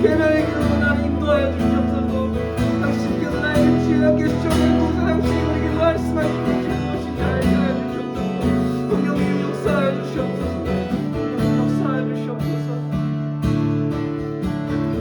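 Worship music: an acoustic guitar strumming held chords.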